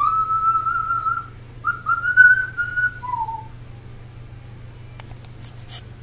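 Pet parrot whistling a tune: long, slightly wavering held notes for about three seconds, ending on a short falling note, then a few faint clicks and rustles.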